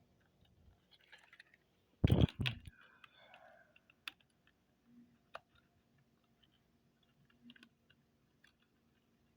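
Small plastic clicks and taps of HO-scale model railway cars being handled on the track while their couplers are fitted together, with a louder clatter of knocks about two seconds in. One of the couplers is bent and will not hold.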